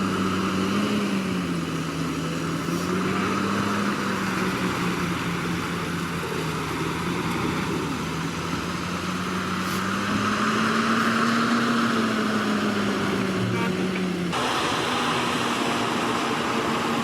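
Heavy diesel engine of earthmoving machinery running under varying load, its note slowly rising and falling. The sound changes abruptly about 14 seconds in.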